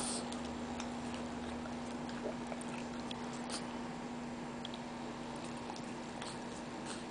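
A few soft clicks and smacks from a French bulldog's mouth as it yawns, over a steady hum.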